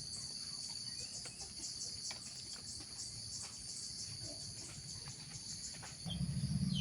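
Steady, high-pitched insect chorus in rural countryside, with a few faint bird chirps. A low rumble sets in near the end.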